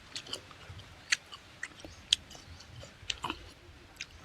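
A person eating close to the microphone: chewing with a string of short, sharp wet mouth clicks and smacks, the loudest about one, two and three seconds in.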